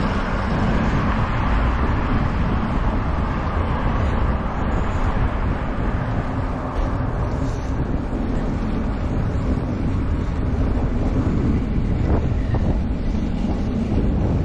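Wind buffeting the microphone while riding, a steady low rumble with a rushing hiss over it.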